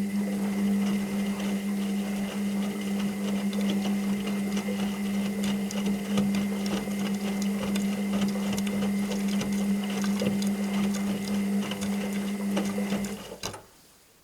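Washing machine motor running with a steady hum and light rattling. It cuts off sharply about a second before the end, followed by a single click.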